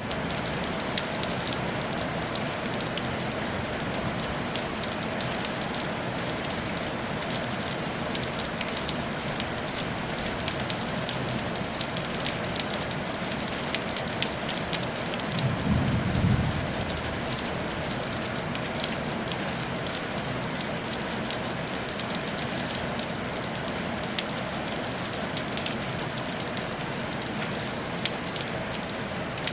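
Steady rain falling on a tile roof, a dense patter of drops. About halfway through there is a brief low rumble.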